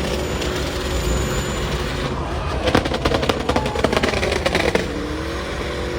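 Car engine running steadily, with a run of rapid crackling pops for about two seconds in the middle.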